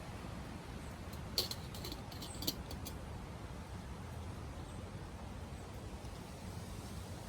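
Wood fire burning in a small camping wood stove: a steady low rumble with scattered sharp crackles and pops, a quick cluster of them about a second and a half in.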